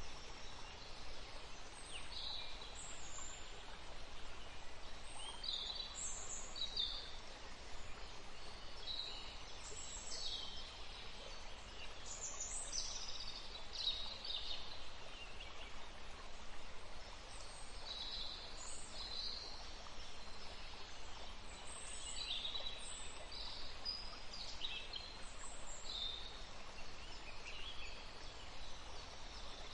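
Small songbirds chirping and calling over a steady outdoor hiss, short high notes coming every second or two.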